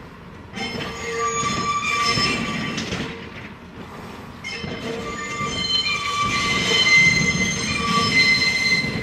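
New York City R28 subway cars' wheel flanges squealing on a sharp curve: several high, wavering tones over low rolling-wheel rumble. The squeal starts about half a second in, eases briefly near the middle, then comes back louder.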